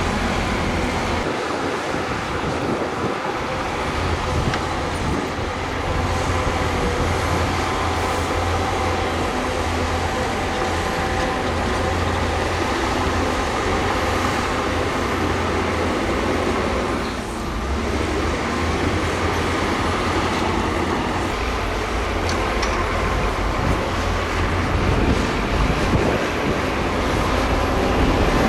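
Heavy diesel earthmoving machinery, bulldozers and dump trucks, running steadily with a deep engine drone, briefly easing off past the middle.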